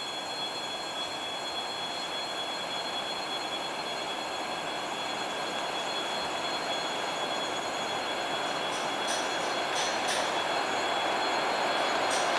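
Approaching passenger train hauled by a ChS2T Škoda electric locomotive: a dense rumble of wheels on rails that grows steadily louder, with a steady high tone above it. A run of sharp clicks starts about nine seconds in.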